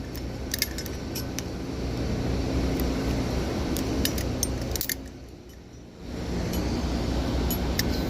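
Light metallic clinks and jangles of metal hardware being handled, over a steady low background rumble that drops briefly about five seconds in.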